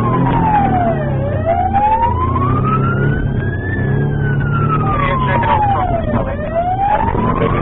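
Police car siren in a slow wail, rising and falling in pitch over about two and a half seconds each way, over the steady rumble of the car's engine and road noise.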